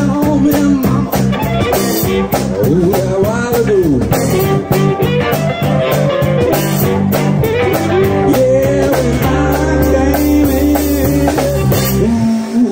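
Live blues band playing an instrumental passage with electric guitar, bass and drum kit, the guitar bending notes over a steady beat; the full band drops out near the end.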